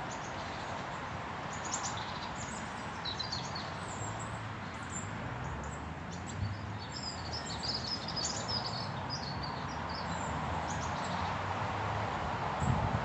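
Small woodland birds chirping and singing, many short high calls and trills, busiest in the middle, over a steady outdoor hiss and a faint low drone.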